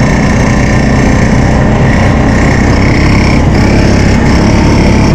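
Honda 350 ATV engine running loud and steady under throttle while riding in snow, its pitch rising slightly about three seconds in.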